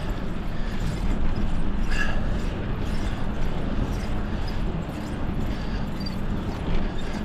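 Wind rushing over the microphone with tyre and road noise from a bicycle being ridden, a steady low rumble.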